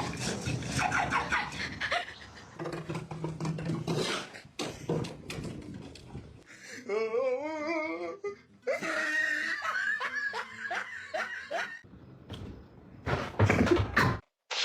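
People laughing in several separate bouts.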